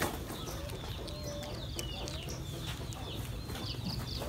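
Birds calling in the background: many short, high chirps and quick falling notes, over a faint low steady hum.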